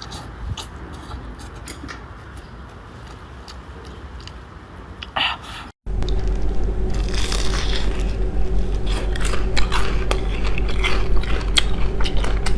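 Close-miked eating sounds: chewing with wet mouth clicks and smacks. About six seconds in the sound drops out for a moment and returns louder, with a steady hum beneath the clicks.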